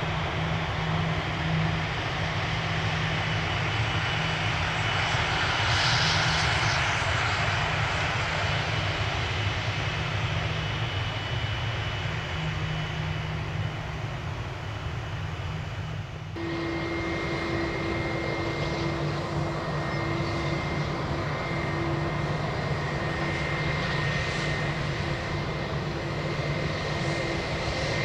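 Airliner jet engine noise swelling to a peak about six seconds in, then easing off. About two-thirds of the way through, it cuts abruptly to a steady engine sound carrying a held whine.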